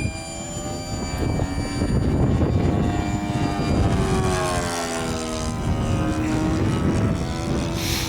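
Radio-controlled model warbird plane's motor and propeller droning as it flies past, its pitch shifting as it passes. Wind buffets the microphone throughout.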